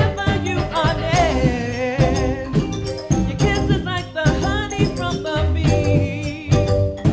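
A band playing an up-tempo song: a steady bass line and regular percussion strikes under wavering held vocal or melody notes.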